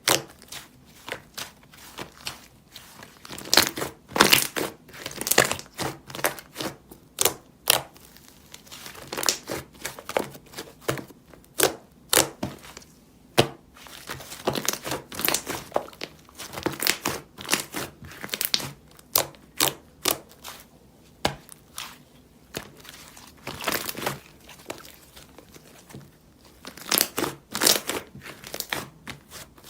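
Vanilla butter slime being squished and stretched by hand, giving irregular sticky pops and crackles, often several in quick clusters.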